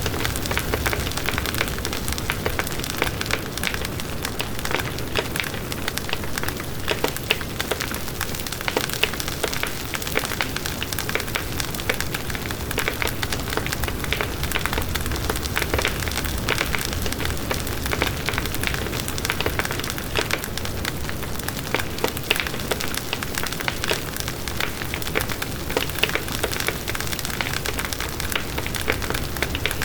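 Firewood burning in a fireplace, crackling and popping steadily with many small sharp snaps.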